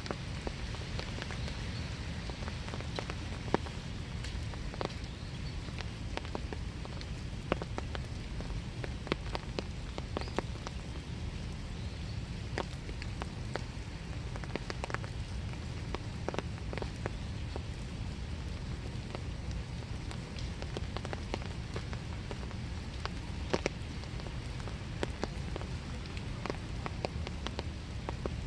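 Steady winter rain falling in a small wood, with scattered single drips and drops striking close by.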